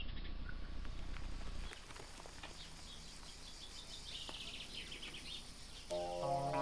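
Outdoor ambience with small birds chirping now and then over a low hum that cuts off about two seconds in. Music with sustained pitched notes comes in near the end.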